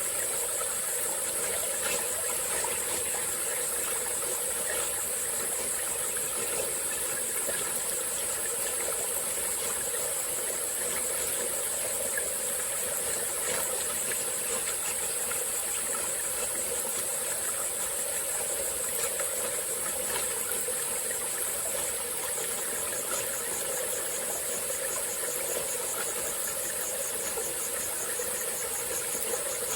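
A small stream flowing steadily, under a constant high-pitched insect chorus. About two-thirds of the way through, a rapidly pulsing insect trill joins just below the chorus.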